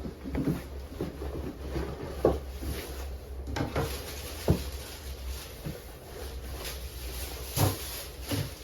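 A series of irregular knocks and clunks of objects being handled, the sharpest about four and a half seconds in, over a steady low rumble.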